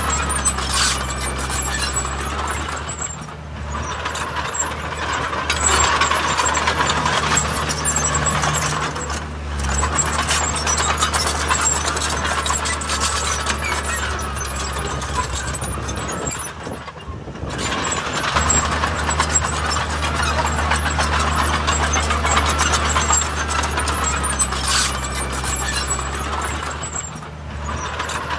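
Diesel engines of heavy earthmoving machinery running steadily, with a low hum and rattling clatter over it. The engine sound drops away briefly three times.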